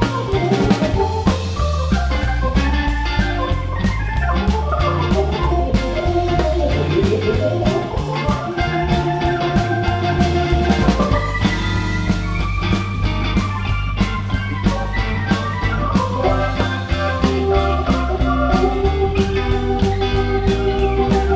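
Live rock band playing an instrumental break: steady drums and bass under a lead line that runs through quick phrases and holds long notes.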